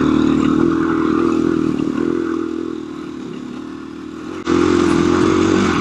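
KTM 350 EXC-F single-cylinder four-stroke dirt bike engine running under throttle on a rough trail. It eases off about two and a half seconds in, runs quieter for a couple of seconds, then comes back on throttle abruptly near the end.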